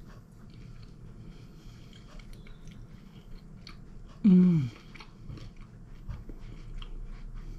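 A person chewing a mouthful of cheese-topped fougasse flatbread, with faint crunches and small mouth clicks. About four seconds in comes one short hummed 'mmm' that falls in pitch.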